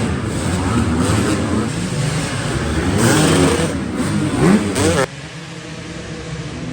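Dirt bike engines revving up and down as the bikes race. About five seconds in the sound cuts abruptly to a quieter, steadier engine drone.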